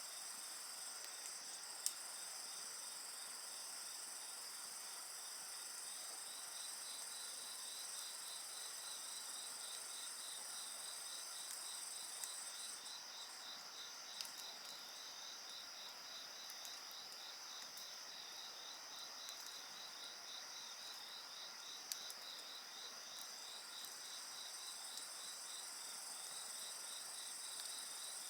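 Insects chirping in several steady, overlapping high trills, one of them an even pulsing chirp. A few sharp pops of a wood fire crackle over them, the loudest about two seconds in.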